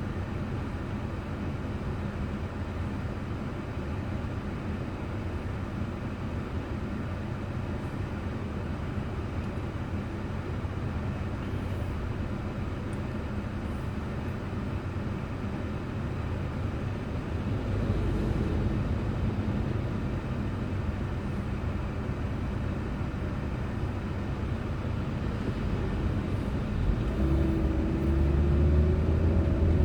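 Steady road and engine noise of a car driving, recorded from inside the car by a dashboard camera. The low rumble swells a little past halfway, and near the end a steady pitched drone comes in over a heavier low hum.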